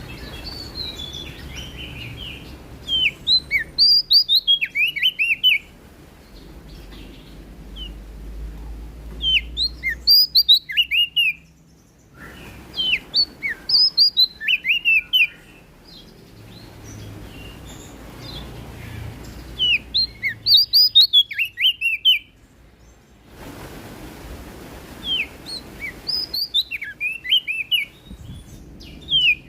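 A prenjak daun songbird sings repeated song phrases. Each phrase is a quick run of high, sharply down-slurred notes lasting about two seconds, and a new phrase starts every four to five seconds. A low hum fills the gaps between phrases.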